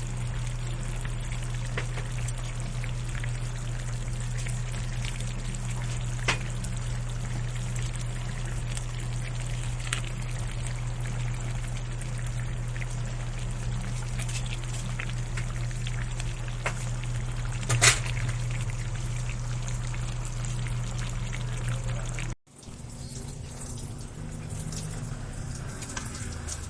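Chicken caldereta cooking in a pot: a steady hiss over a low hum, with a few sharp clicks, the loudest about 18 seconds in. The sound cuts off about 22 seconds in and gives way to a quieter background.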